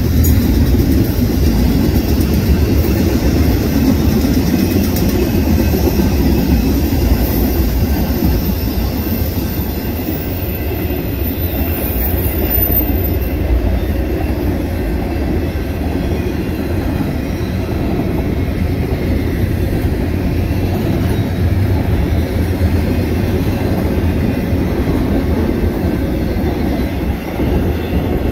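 Intermodal freight train's cars rolling past at speed, a loud steady rumble of steel wheels on the rails.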